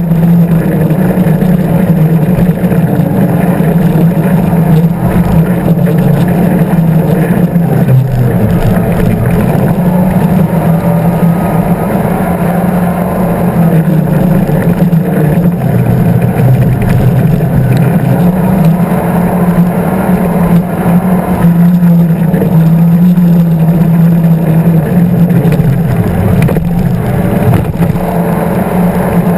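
Engines of a 36 Skater performance catamaran running at speed, a loud steady drone that wavers slightly in pitch, with a rushing noise of wind and water over it.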